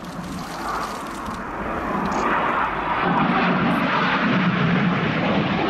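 BAE Hawk T1 jets flying past with their Rolls-Royce Adour turbofan engines running, the jet noise growing steadily louder over about three seconds as they approach, then holding loud and steady.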